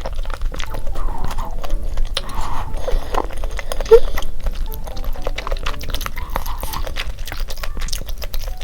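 Close-miked mukbang eating sounds: wet chewing and clicking mouth sounds of chewy rosé tteokbokki rice cakes and boneless chicken feet, with a sharper squelch about four seconds in. Light background music plays underneath.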